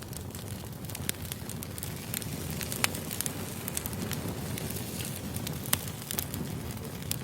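Firewood burning: a steady low rumble of the fire with sharp crackles and pops scattered through it, the loudest two a little before three seconds in and near six seconds in.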